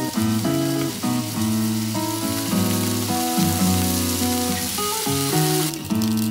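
White sausages sizzling in hot oil in a small cast-iron skillet, a steady hiss that turns to a crackle near the end, under background music with a melody.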